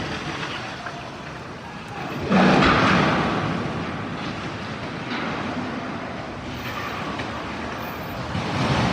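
A tower crane crashing down: about two seconds in, a sudden loud crash with a deep rumble that dies away over several seconds, over steady city traffic noise.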